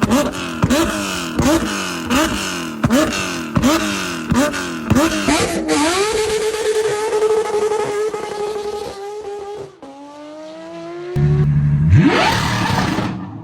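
High-revving supercar engine blipped sharply about eight times, each rev rising fast and falling away. It is then held at a steady high note for a few seconds. After a cut, another engine note rises as the car accelerates.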